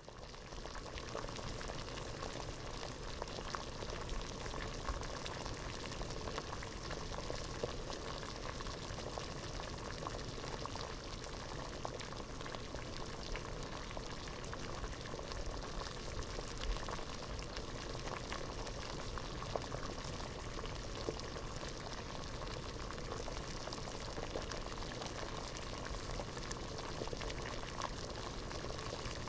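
Water boiling hard in a pot: a steady bubbling with many small pops and burbles throughout, fading in at the very start.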